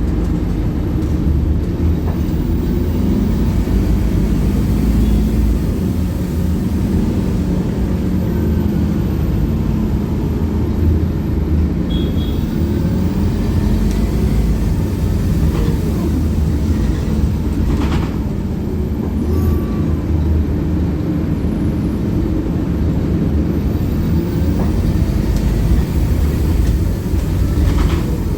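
Scania K280UB city bus running under way, its diesel engine and drivetrain a steady heavy drone, with a few slow rising whines as it picks up speed and a brief knock about two-thirds through.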